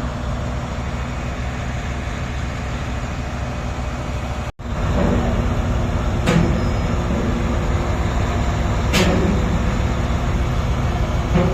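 Heavy diesel engine of a mining dump truck running with a steady low rumble. The sound drops out for a moment about four and a half seconds in and comes back slightly louder, with two sharp knocks a few seconds apart.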